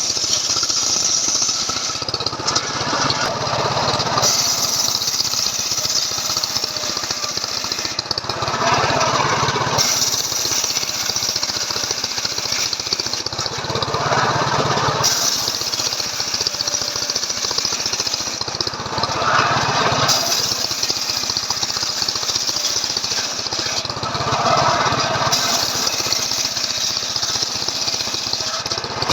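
Stihl MS 381 two-stroke chainsaw running under load, its chain ripping lengthwise through a log in a homemade chainsaw-mill frame; the sound is steady, with its tone shifting every few seconds as the cut goes on.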